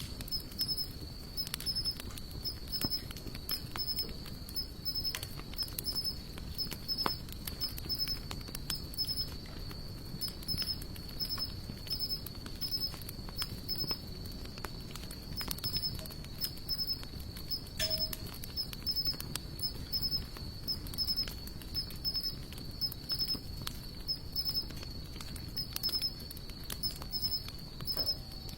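Hardwood campfire of sawtooth oak and mixed broadleaf logs burning and crackling, with frequent irregular sharp pops over a low hiss. A steady high-pitched insect trill with a regular pulsing beat runs underneath.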